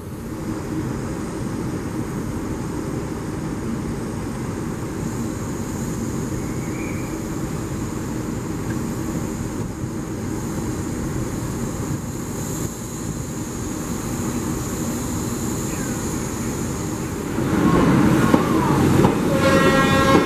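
Diesel trains running steadily through a station with a thin high whine over the rumble, then louder from about 17 seconds in as an HST's Mark 3 coaches pass close by, with a pitched tone sounding near the end.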